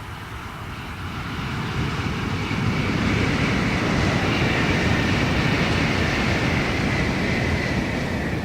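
Shinkansen high-speed train approaching and passing at speed: a rushing roar that builds over the first few seconds, holds, then begins to fade near the end, with a high whine that sinks slightly in pitch as it goes by.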